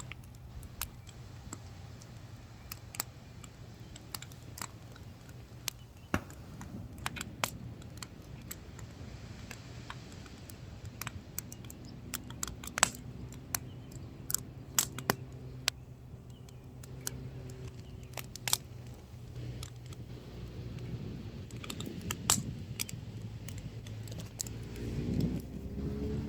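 Firewood burning, crackling with irregular sharp pops and snaps over a steady low hum. Near the end a vehicle engine grows louder.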